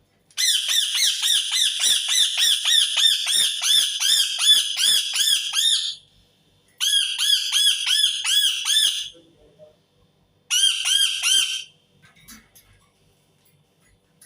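Indian ringneck parakeet screeching, a rapid run of repeated shrill calls at about four a second. It comes in three bouts: a long one of about five and a half seconds, then two shorter ones with brief pauses between.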